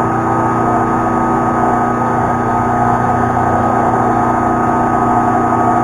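Milling machine running steadily, a constant motor and spindle hum made up of several fixed tones.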